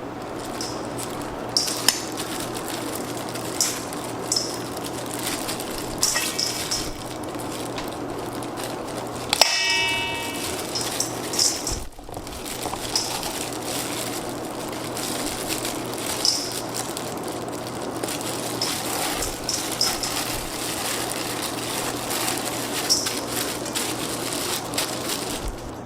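Kitchen work sounds: repeated metal clanks and knocks over a steady background noise, with one ringing metallic clang about ten seconds in.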